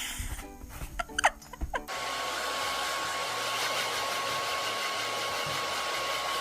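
A steady rushing noise with a thin, steady whine in it, starting abruptly about two seconds in and holding level after that.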